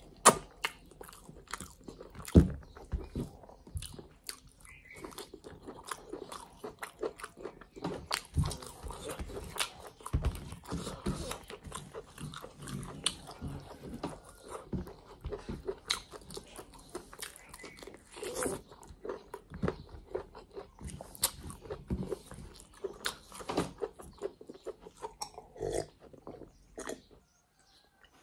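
Close-miked chewing and lip-smacking as a person eats chicken liver, gizzards and rice by hand: a steady run of irregular wet clicks, smacks and crunches.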